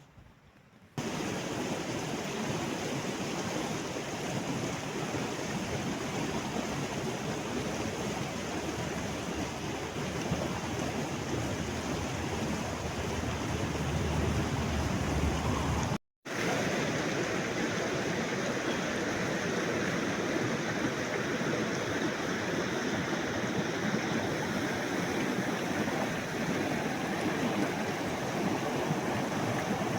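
Mountain river rushing steadily, an even wash of water noise that starts about a second in and cuts out for an instant just past the middle before carrying on.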